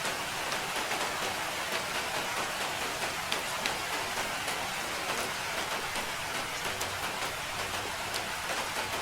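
Steady rain falling, a dense even hiss scattered with many sharp drop taps.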